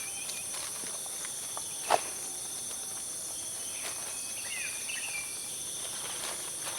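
Steady high-pitched insect chorus of crickets in forest, with a single sharp knock about two seconds in and a few faint chirps a little after the middle.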